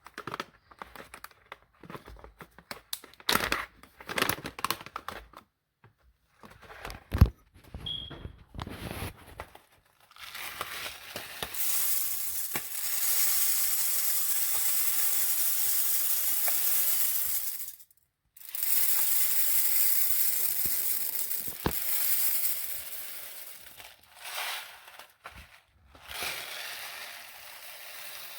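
Plastic bag of jasmine rice crinkling and rustling as it is opened and handled, then a steady pouring hiss in two long runs with a short break about 18 seconds in, tapering near the end.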